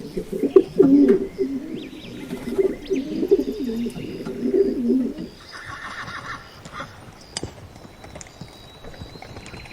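Pigeon cooing: a low, warbling run of coos that stops about halfway through, followed by quieter sounds with a brief high chirping.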